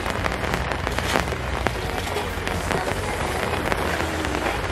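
Steady rain pattering on a sailboat's canvas bimini and deck, a dense spray of individual drop ticks over a constant hiss.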